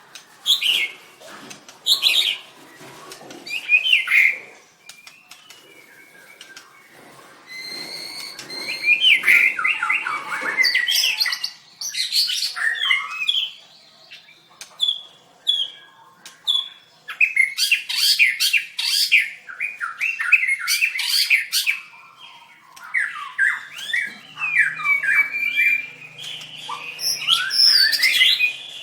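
White-rumped shama singing: a rapid run of varied whistles, sharp chirps and harsh notes in short phrases with brief pauses between them.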